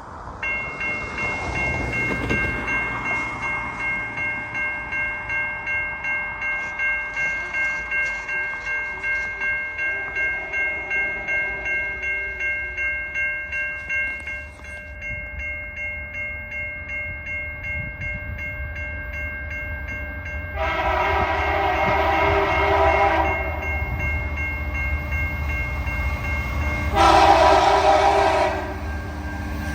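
A level-crossing warning bell rings at about two strokes a second while a diesel locomotive's rumble builds as it approaches. About 21 seconds in, the lead unit, CN SD75I 5724, sounds its K3H horn in a long blast; a shorter blast follows about 27 seconds in, and another begins at the very end. The horn has an odd, weird-sounding chord.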